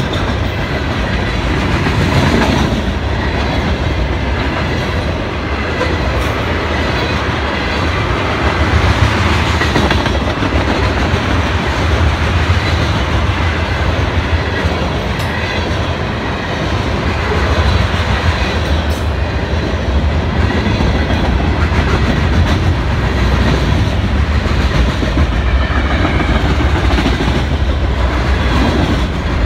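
Mixed freight train rolling past close by: the steady running noise of its steel wheels on the rails.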